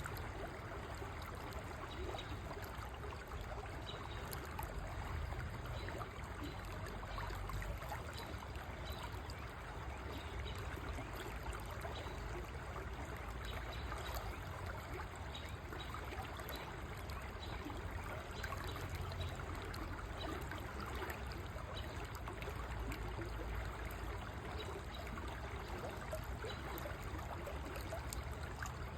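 River water flowing steadily: a constant rushing with a deep low rumble beneath it.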